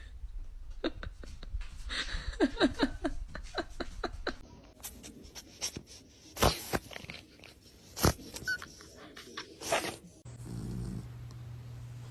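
A dog giving a quick series of short yips over the first few seconds, then three loud sharp sounds spaced a second or two apart.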